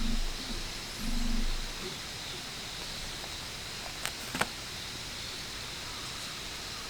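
Steady outdoor background hiss with a faint high drone, two low muffled thuds in the first two seconds, and two sharp cracks about four seconds in.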